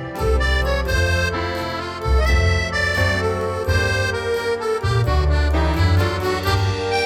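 Accordion music with a melody of quick changing notes over a bass line that steps along about once or twice a second.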